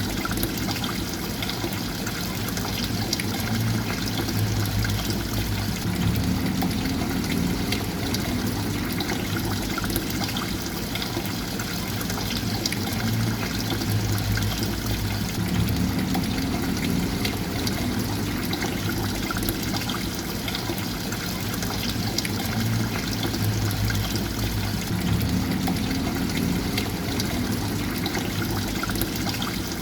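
Water running and trickling steadily, with a low burbling that swells and eases off at regular spacing.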